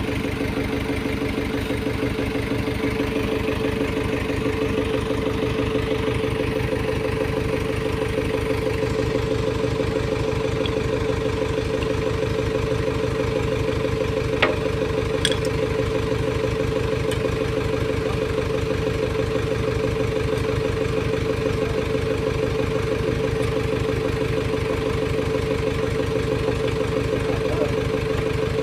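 Engine idling steadily with an even, rapid firing beat and a constant tone over it; a single sharp click about halfway through.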